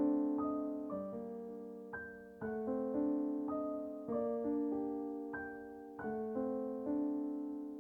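Background music: soft solo piano playing slow, gentle chords and notes, each one ringing and fading.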